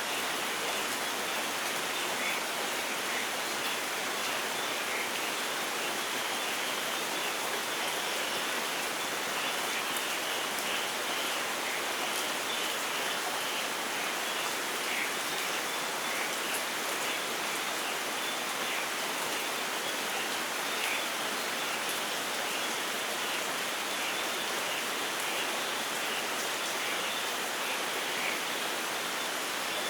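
Steady light rain falling, an even hiss with scattered drops pattering.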